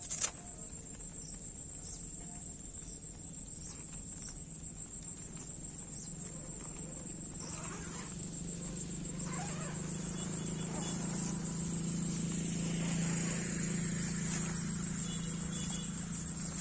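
Crickets trilling steadily in a high, even pulse. A low hum swells up about halfway through and eases off near the end, and there is a single sharp knock right at the start.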